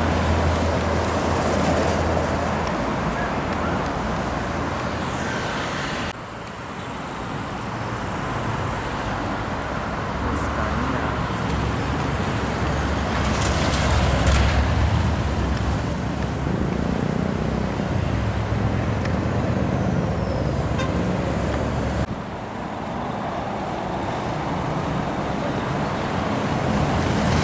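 Road traffic with heavy trucks passing, a steady rush of engine hum and tyre noise. The sound drops off abruptly twice, about six seconds in and again about two thirds of the way through.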